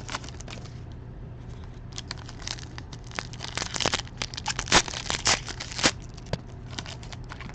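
Plastic wrapping of a trading-card box and its packs being torn and crinkled by hand, in irregular crackly strokes with a short lull about a second in, over a steady low hum.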